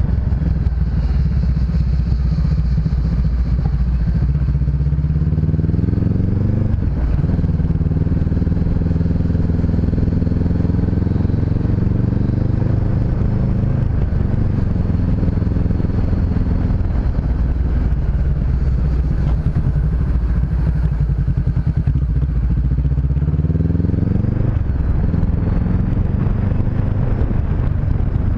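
Honda CB500X's parallel-twin engine running on the road. It rises in pitch about five seconds in and drops suddenly at a gear change, then rises again near the end.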